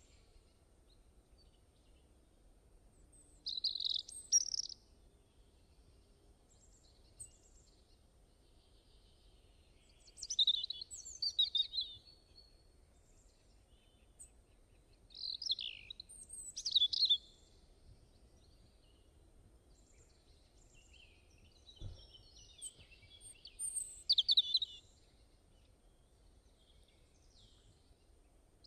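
A songbird singing in short, rapid, high-pitched phrases of one to two seconds, four times, with pauses of several seconds between them.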